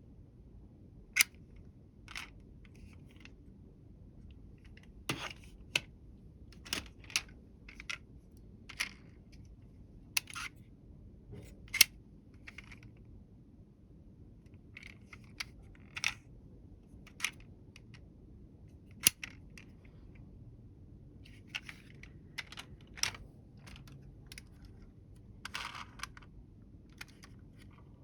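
Small toy vehicles being handled and set down: irregular sharp clicks and taps, a few quite loud, scattered through a quiet room.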